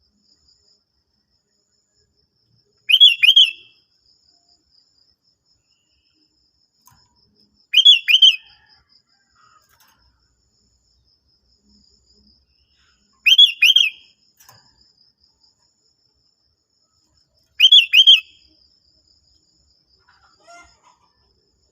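Sooty-headed bulbul (kutilang) giving a short, loud two-note call four times, roughly every five seconds, over a faint steady insect trill.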